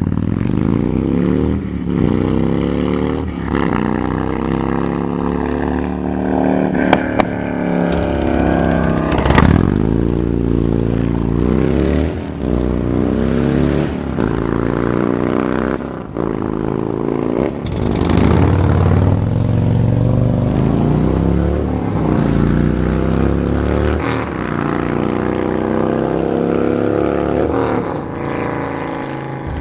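Harley-Davidson Dyna's 96ci V-twin running through a 2-into-1 aftermarket exhaust, revving again and again, its pitch climbing and then dropping back each time.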